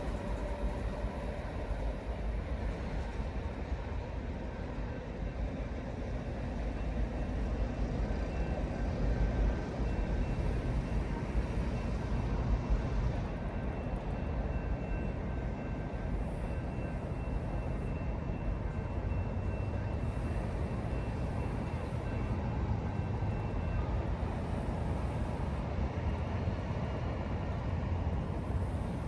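A train at a railway station making a steady low rumble, with two faint high steady tones through the middle.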